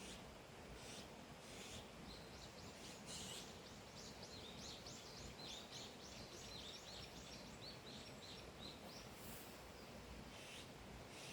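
A songbird singing a long, rapid run of short, falling chirps, several notes a second, starting about two seconds in and stopping a couple of seconds before the end, over a faint steady outdoor hiss.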